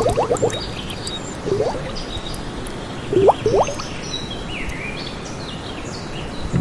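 Outdoor animal calls: a few clusters of short, upward-sweeping calls, the loudest about 3 s in, with higher bird chirps and warbles over a steady background hiss.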